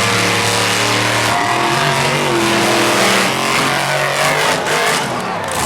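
Monster truck engines running hard and revving while racing, the pitch shifting up and down.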